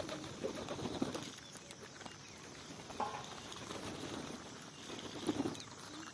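Birds calling now and then among scattered light pattering and taps.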